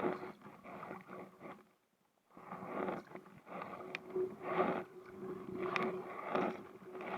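Paddling a Sea Eagle SE370 inflatable kayak: a run of paddle strokes splashing in the water, broken by a short pause about two seconds in. A faint steady hum runs underneath.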